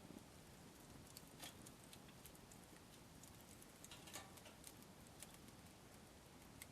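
Faint crackling of a wood campfire: a few sharp, scattered pops and ticks over a quiet background, the strongest about four seconds in.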